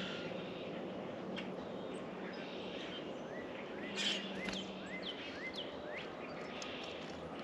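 Small birds calling at a feeder: a run of short rising chirps, about six in three seconds midway through, with a few other brief calls, over a steady low background noise.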